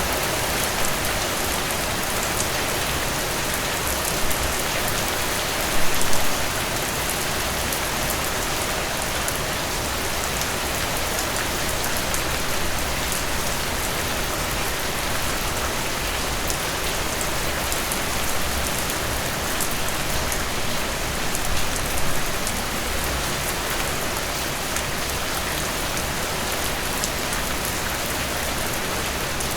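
Heavy rain falling steadily, an even hiss of drops on surfaces, with a few brief louder spatters about six seconds in and again around twenty-two seconds.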